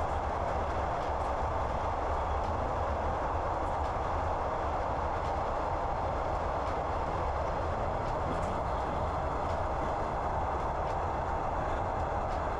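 Passenger train running steadily: a continuous rumble and rolling noise of wheels on rail, heard from inside the carriage, with a few faint clicks.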